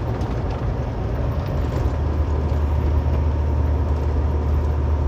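Steady road noise inside a moving vehicle's cab at highway speed: a low engine and drivetrain drone under the rush of tyres and wind. The drone grows stronger about two seconds in.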